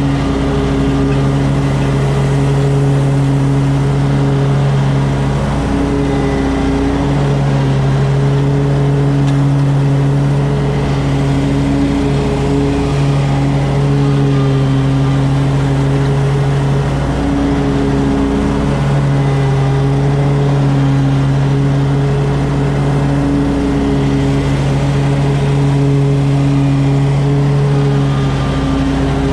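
An engine running steadily at an even speed, its pitch shifting slightly every few seconds.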